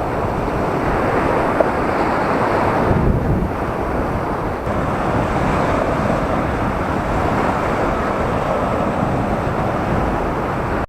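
Sea surf washing onto a sandy beach in a slightly rough sea, a steady rushing noise with wind buffeting the microphone.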